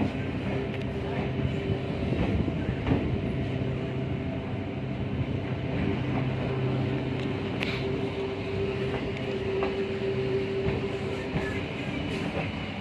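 Passenger train running along the track: a steady running noise with a held humming tone and a few faint clicks.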